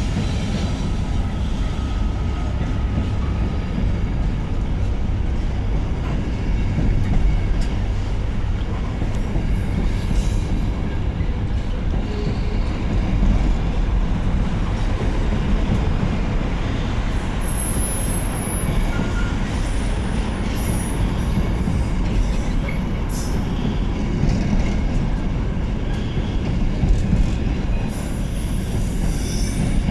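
Train led by a Class 66 diesel locomotive rolling through with a steady heavy rumble, wheels clicking over rail joints, and high-pitched wheel squeal in the middle and again near the end.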